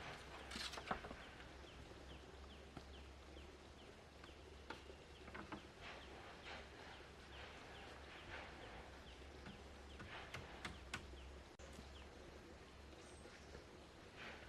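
Faint outdoor ambience: scattered light taps and knocks over a low steady hum, with short high chirps repeating throughout.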